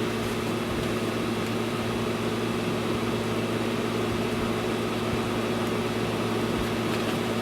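Air conditioner running with its compressor on, a steady hum with an even fan noise.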